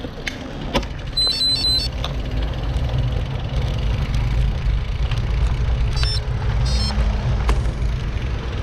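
Road traffic: car and truck engines and tyres as a steady low rumble. Short, high-pitched electronic beeps come in quick groups about a second in and again around six seconds in.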